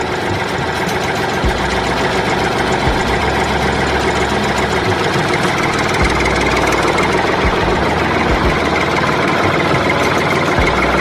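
Small motor of a homemade mini tractor running steadily, with a few faint low knocks.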